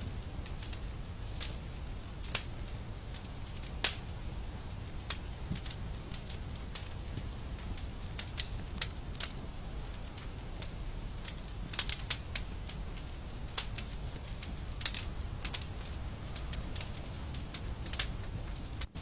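Wood fire crackling, with irregular sharp pops, a few of them louder, over a steady low rumble. The sound cuts out for an instant near the end.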